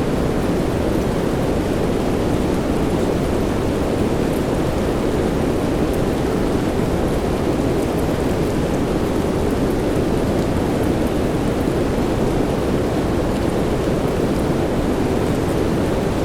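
Steady soft rain with an even, deep hiss and faint scattered drop ticks, unchanging throughout.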